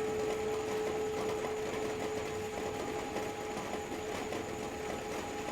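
Tibetan singing bowl ringing on as it slowly dies away, a steady hum with a few higher overtones, over the even hiss of heavy rain.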